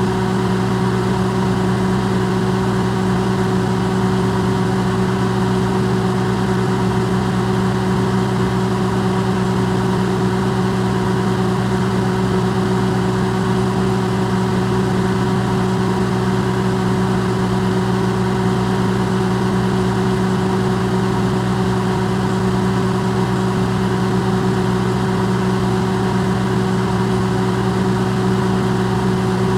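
Electrolux microwave oven running, an amplified steady hum with a low drone and a few higher tones over a soft hiss, unchanging throughout.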